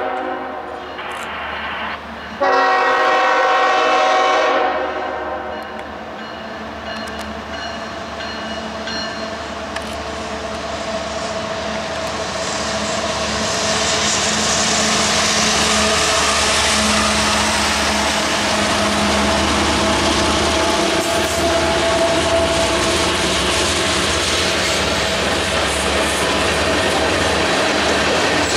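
Diesel freight locomotives' air horn sounding: one blast ends just after the start and a second long blast begins about two seconds in. Then the locomotive engines pass and tank cars roll by with wheels clacking over the rail joints, louder from about halfway through.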